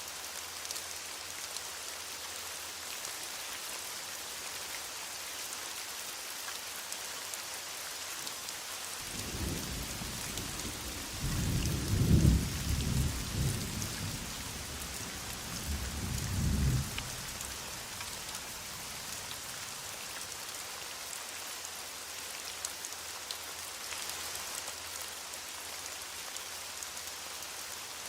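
Heavy rain falling steadily, with a rolling rumble of thunder that builds about a third of the way in, peaks, and dies away several seconds later.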